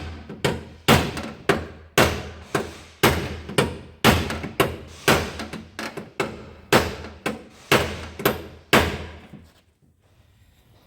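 Hammer blows on the Skyline's crumpled rear body metal, about two sharp strikes a second with a short ring after each, stopping about nine seconds in: knocking out crash damage around the tail-light opening.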